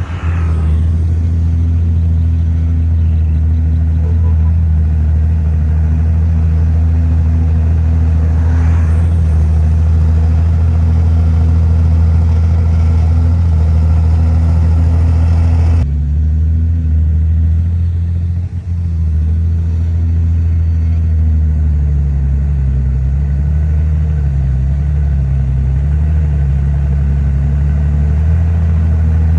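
Heavy diesel engine of earthmoving machinery running steadily with a deep drone. About halfway through, the sound changes abruptly, and later the engine pitch rises and falls a few times as the load changes.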